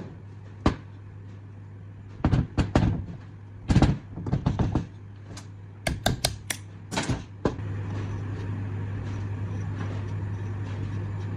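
A series of sharp knocks and clattering clicks, as of tools and parts being handled, over a steady low hum. About seven and a half seconds in, a louder steady running noise starts and continues.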